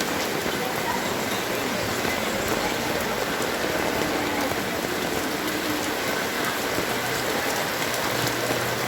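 Heavy rain falling steadily, hissing, with scattered drop ticks.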